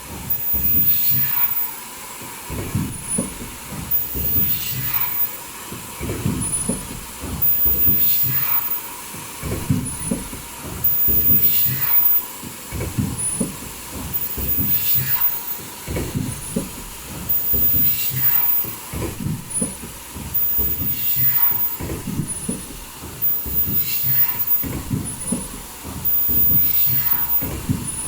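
Foldable N95 mask production line with automatic breathing-valve welding, running in a steady repeating cycle: a burst of mechanical clatter and a short high sound about every two seconds, over a steady thin tone.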